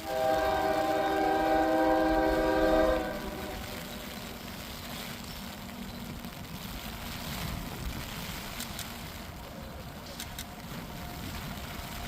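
Diesel freight locomotive's air horn sounding one long blast of about three seconds that cuts off sharply, followed by the lower rumble of the train.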